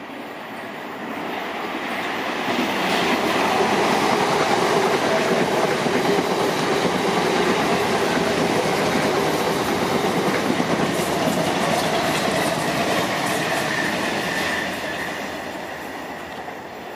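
A South Western Railway electric multiple-unit train passing through the station, growing louder over the first few seconds, running steadily past for about ten seconds, then fading near the end.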